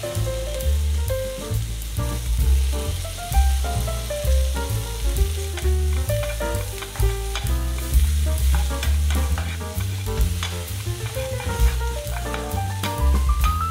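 Chopped onion, green chilli and capsicum sizzling in oil in a pan over high heat, with the scrape of a wooden spatula stirring them. Background music with a low bass and a melody of short notes plays over it, running up a scale near the end.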